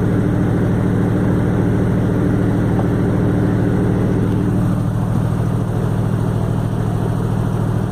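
Motorboat's V8 engine idling steadily with a low, even running note.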